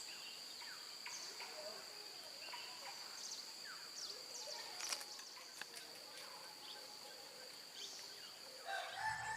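Forest ambience: a steady, high-pitched insect drone with many short bird chirps scattered through it, and a louder call about nine seconds in.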